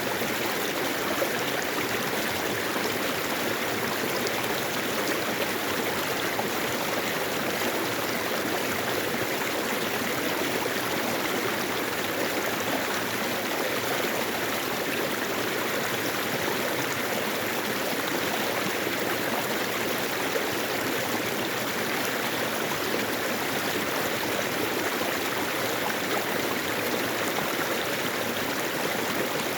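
Mountain stream flowing over rocks, a steady, unbroken rush of water.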